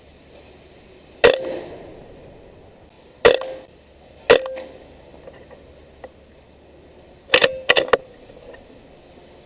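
A .22 Benjamin Marauder PCP air rifle firing: six sharp cracks, each with a brief ring. Three come singly a second or two apart, and a quick group of three follows near the end.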